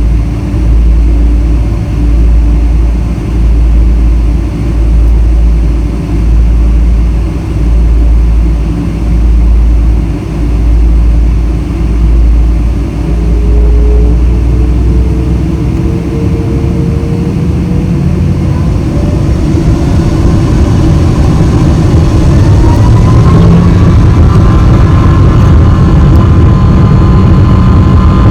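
Boeing 777-300 on the ground: a low rumble swelling about once a second, then the twin jet engines spool up, a whine rising in pitch about halfway through and settling into a steady high tone as they reach takeoff thrust.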